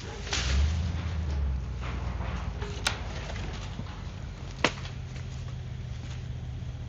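An engine running steadily with a low hum. Its level swells briefly early on, and two sharp knocks or clanks come about three and four and a half seconds in.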